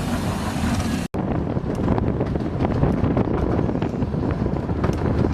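Running noise of a Romney, Hythe and Dymchurch Railway miniature train in motion, a steady low rumble with scattered light clicks, mixed with wind on the microphone. The sound cuts out briefly about a second in.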